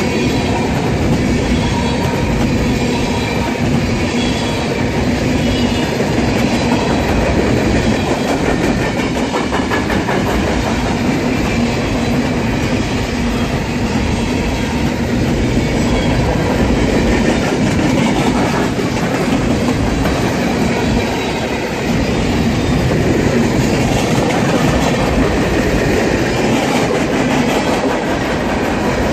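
Freight cars rolling past close by, a steady loud rumble of steel wheels on rail with wheels clicking over the rail joints.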